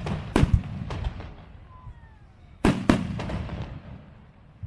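Fireworks display: aerial shells bursting in sharp bangs, about three in the first second and two more about two and a half seconds in, each trailed by a low rolling rumble. A faint falling whistle sounds between the two groups.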